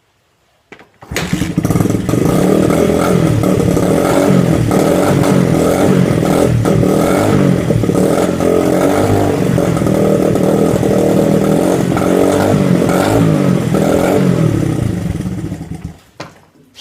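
Honda CRF dirt bike's four-stroke single, its exhaust baffle removed, catching about a second in and running loud and open through the unbaffled muffler, revved up and down a few times before it shuts off near the end.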